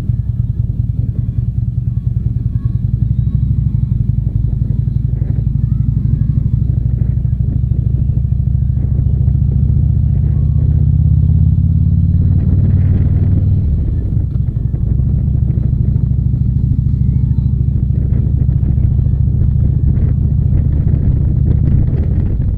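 Harley-Davidson motorcycle's V-twin engine running while under way, a steady low rumble. The engine note changes about twelve seconds in and the level dips briefly soon after.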